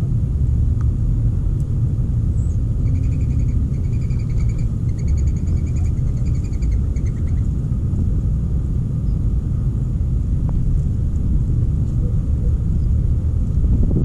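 A steady low rumble, with a bird giving about four short, rapid trills in the middle.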